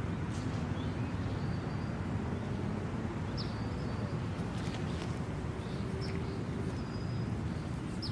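Outdoor pond-side ambience: a steady low rumble, with short, high bird chirps and whistles scattered through.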